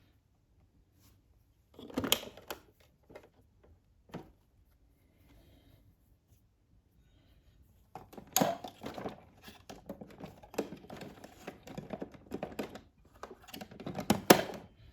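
Handling noise as clothes are loaded into a washing machine: cloth rustling with clicks and knocks from the machine's parts. Brief clicks and rustles early on, then a busy stretch of rustling and knocking in the second half, with the sharpest knocks near its start and end.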